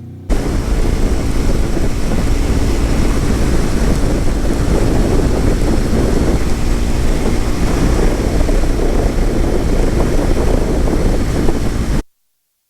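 Motorcycle at highway speed, recorded on a rider-mounted microphone: heavy wind rush over a steady low engine drone. It starts abruptly and cuts off suddenly near the end.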